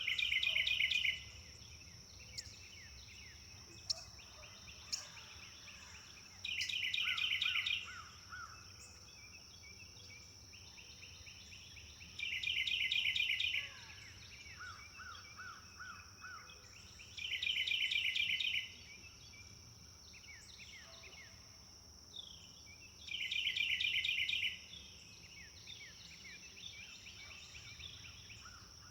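A songbird repeating the same short trilled song five times, about every five to six seconds, each phrase about a second and a half long, with fainter calls of other birds between, over a constant high-pitched tone.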